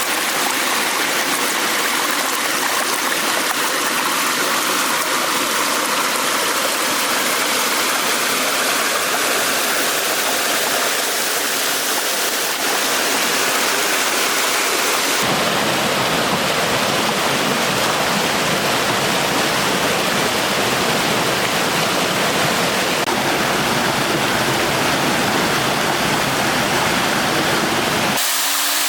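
Monsoon stream of water flowing, a steady continuous rush. About halfway through it abruptly turns deeper and fuller.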